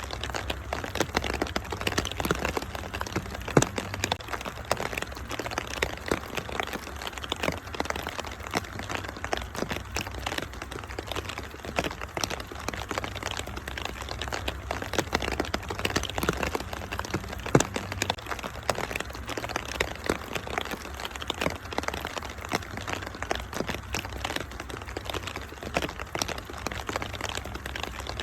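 Wood fire crackling with a constant scatter of small pops and snaps, two sharper pops standing out, over a steady hiss of rain.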